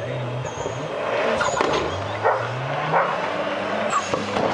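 A Mitsubishi Lancer Evolution autocross car's engine under hard acceleration, its pitch climbing steadily as it revs. Several sharp cracks sound over the engine.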